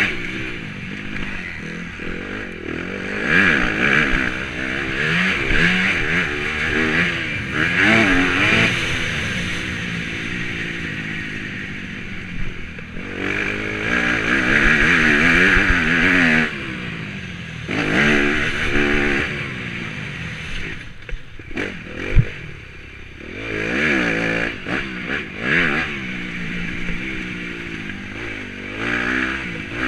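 Motocross bike engine revving up and falling off again and again as it is ridden hard round the track, with wind rush over an onboard camera. There is a single sharp thump about two-thirds of the way through.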